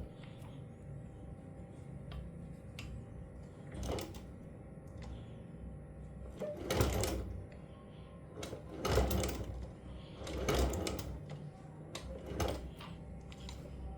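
Sewing machine stitching in about five short runs, each lasting under a second, with pauses between.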